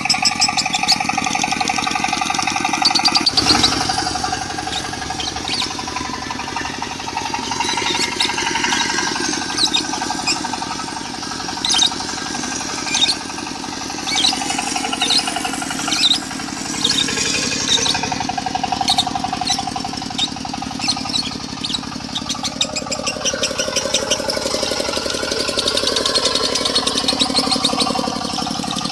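Diesel engine running steadily with a knocking beat, mixed with lovebird song: rapid chattering trills and sharp high chirps that come and go throughout.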